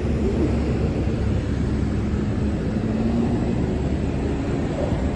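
A diesel engine idling steadily: a low rumble with a steady hum over it.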